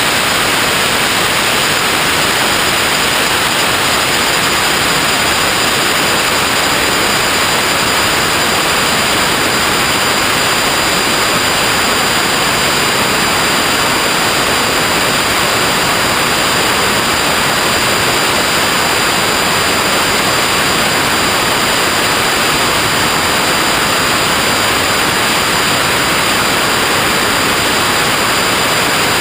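Steady, unchanging hiss of noise like static, with no pitch and no events, loud throughout.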